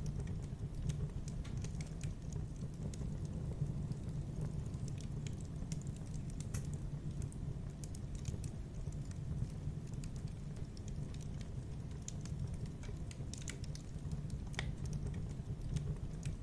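Wood fire in a fireplace crackling, with irregular sharp pops over a steady low rush of the flames.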